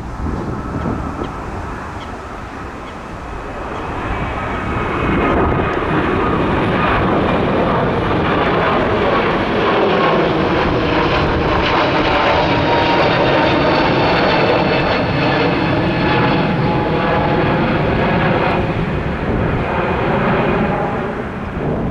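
Jet airliner flying low overhead: engine noise swells over the first few seconds and then holds loud, with whining tones that slide down in pitch as it passes.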